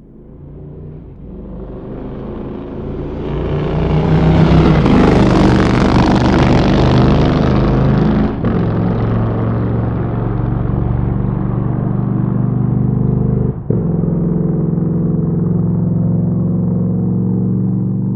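Motorcycle engine running, growing louder over the first few seconds and then holding a steady note, with two brief momentary drops partway through.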